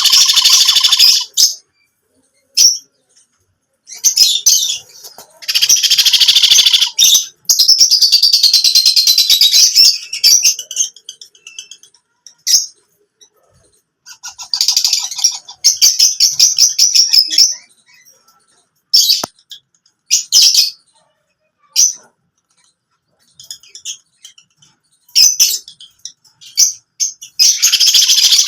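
Baby parrots calling in loud bursts of rapidly repeated squawks, each burst lasting from under a second to a few seconds, with short pauses between them.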